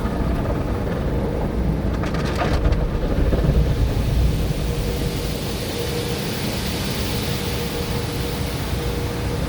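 Tunnel car wash at work, heard from inside the car's cabin: water spraying and washing equipment drumming on the car body, a steady rain-like rumble with a hiss that grows louder in the second half.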